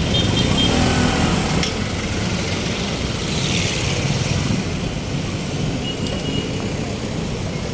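A motor engine running steadily, a low rumble with a brief hiss about three seconds in.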